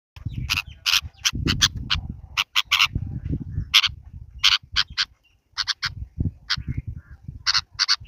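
Birds giving a quick, irregular series of short, harsh calls, over a low, uneven rumble.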